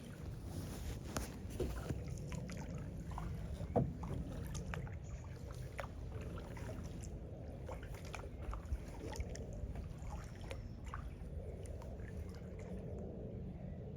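Kayak being paddled: the paddle blades dipping and water dripping and trickling off them, heard as scattered small splashes and drips over a steady low rumble.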